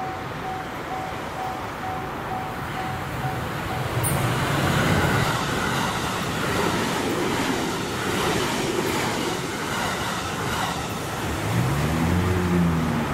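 285 series Sunrise Express sleeper electric train passing close by, a rushing run of wheel and rail noise with a regular clatter over the rail joints. At the start a level-crossing alarm is ringing, until the train covers it about four seconds in. Near the end a lower sound glides up and down in pitch.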